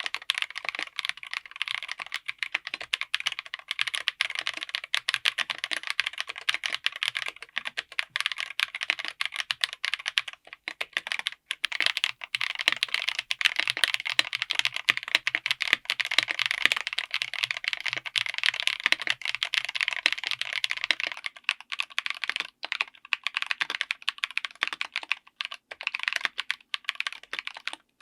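A mechanical keyboard fitted with tactile switches being typed on fast, in a dense run of key clacks. There is a short break about ten seconds in, and the keystrokes grow sparser with short gaps over the last seven seconds.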